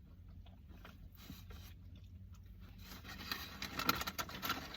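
Close-up chewing and mouth sounds of someone eating, small crackly clicks that grow louder over the last second or so.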